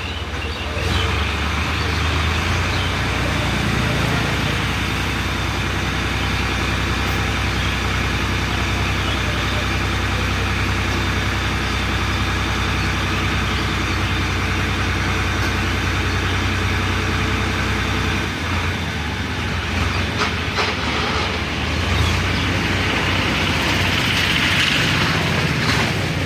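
Tractor diesel engine running steadily with a dense mechanical clatter.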